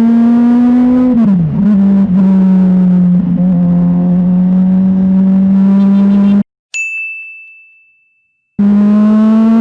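Motorcycle engine running hard at steady high revs, its note dropping about a second in and then holding. About two-thirds through it cuts off abruptly and a single high bell-like ding rings and fades, an edited-in sound effect, before the engine sound returns near the end.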